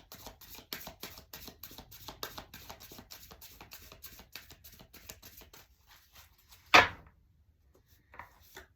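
A deck of oracle cards being shuffled by hand: a fast, even patter of soft card clicks, about nine a second, fading over about six seconds. Then a single loud, sharp slap about seven seconds in, as the deck or a card is knocked down.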